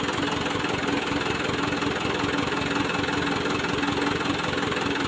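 Engine idling steadily with a rapid, even pulsing beat and a steady hum.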